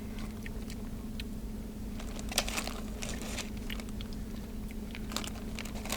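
Soft mouth sounds of someone tasting a dab of hot sauce off his finger: a few small lip smacks and clicks over a steady low hum.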